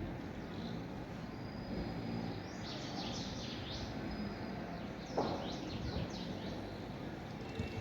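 Small songbirds chirping outdoors: a few flurries of quick, high chirps in the middle stretch, and an earlier thin, held whistle note, over a steady background hiss.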